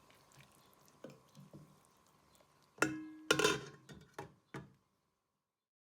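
Cookware clattering: a sharp metal clank that rings briefly about three seconds in, then a short scrape and a few lighter knocks, before the sound cuts off suddenly.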